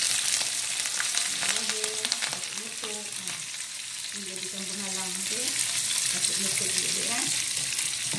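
Curry leaves, garlic and sliced onions sizzling in hot oil in a wok, with frequent sharp crackles and pops as their moisture spatters. A wooden spatula stirs them against the pan.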